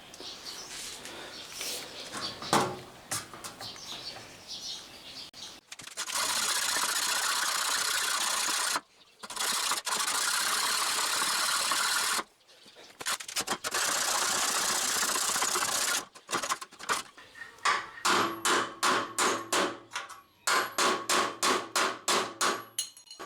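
A power tool cutting through the sheet steel of a door in three steady bursts of a few seconds each, stopping between them, then a fast run of short, evenly spaced strokes near the end.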